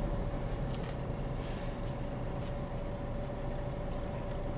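Steady hum of an idling car heard from inside the cabin, with a constant faint whine and a few faint small ticks.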